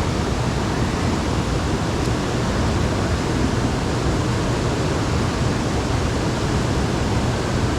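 Steady, loud rushing of water pouring out of the dam's floodgates into the tailwater, an even roar with no breaks.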